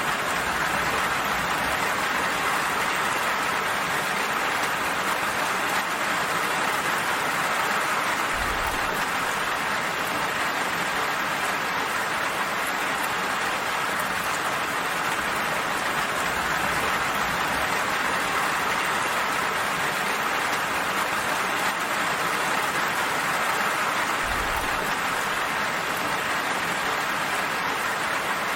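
Steady, even rainfall hissing without a break.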